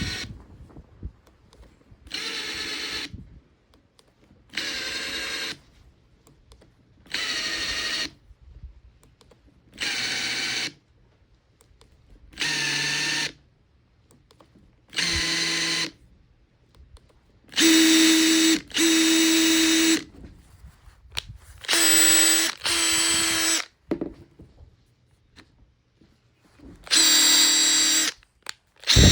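Makita TP141D 18 V cordless 4-mode impact driver running with no load in repeated trigger pulls, tested after repair and cleaning. Six short runs come about every two and a half seconds, then longer, louder runs in three pairs.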